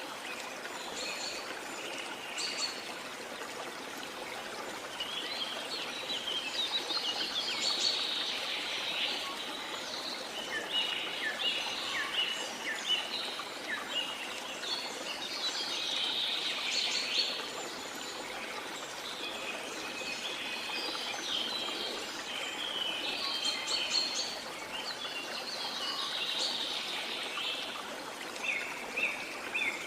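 Small songbirds chirping and singing in bursts every few seconds, with a run of quick repeated chirps near the end, over a steady wash of sea water.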